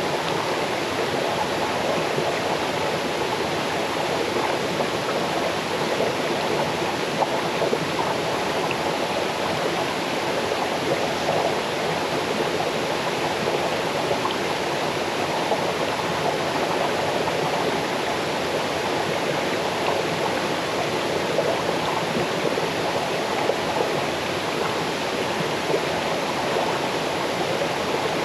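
Small waterfall on a forest stream, water cascading over rocks with a steady rush and splashing.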